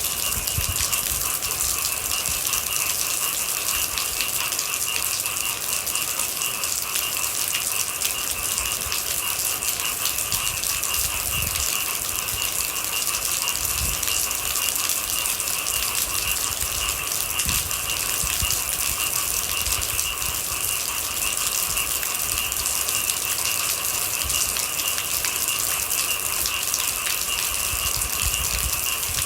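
Steady rain pattering, with a constant high-pitched hum running through it and occasional low thuds.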